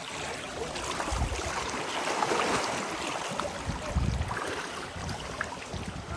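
Steady rush of stream water, with low buffets of wind on the microphone about a second in and again about four seconds in.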